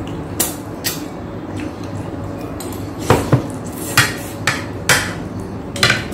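Crunching of crispy deep-fried pork skin (crispy pata) being bitten and chewed, heard as about eight short sharp crunches at irregular intervals, most of them from about three seconds in, over a low steady hum.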